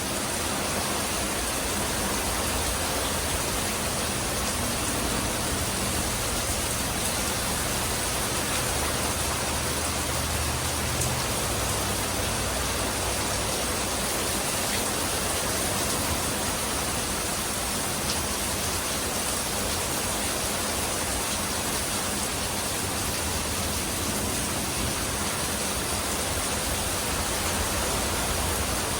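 Steady rain falling: an even hiss that holds without breaks.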